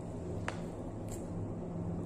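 Close mouth sounds of a person eating with her fingers and chewing, with one sharp wet click about half a second in, over a steady low hum.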